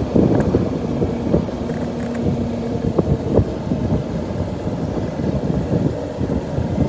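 Motorcycle running on the road with wind buffeting the microphone: a steady low rumble, with a couple of short clicks about three seconds in.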